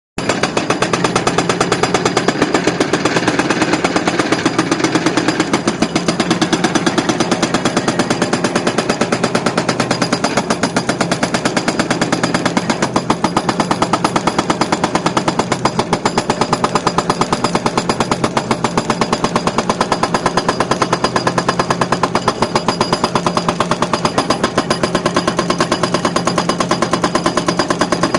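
Hydraulic breaker hammer on a tracked excavator pounding hard ground, with rapid, steady blows over the steady hum of the machine's engine.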